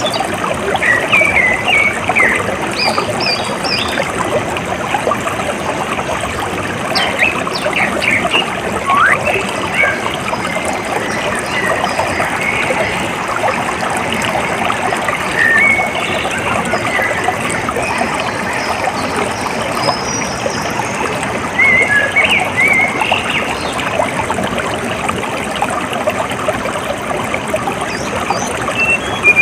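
Flowing water trickling and gurgling steadily, with birds chirping in short calls every few seconds over it.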